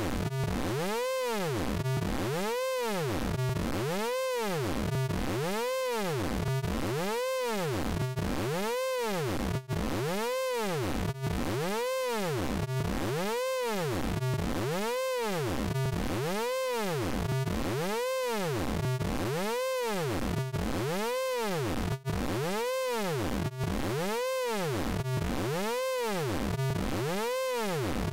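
Synthesized vocoder sound effect from the Orange Vocoder plugin: a buzzy tone repeating about every 0.8 s, each pulse sweeping up in pitch and back down in an arc. It is steady and even, with a few very brief dropouts.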